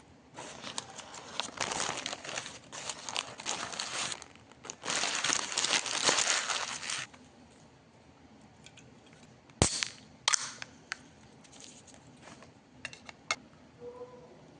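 Paper or plastic wrapping crinkling and rustling for about seven seconds, then a quieter stretch of scattered clicks and taps, with one sharp click about halfway through.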